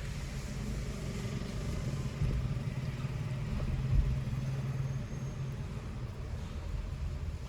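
A car driving with a steady low drone of engine and road noise. There is a single low thump about four seconds in.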